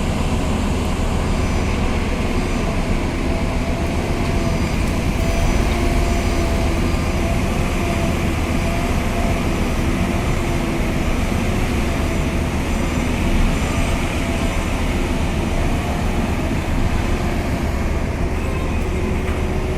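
Heavy engine machinery running steadily: a loud, even drone with a deep rumble and a few faint steady tones over it.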